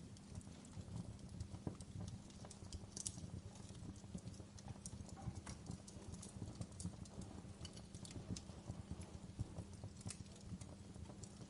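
Wood fire crackling steadily, with a low rumble of flames and frequent irregular sharp pops and snaps.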